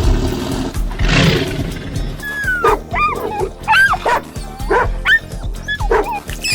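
Animal calls over background music with a steady beat: one short rough call about a second in, then a run of short, high calls that bend up and down in pitch.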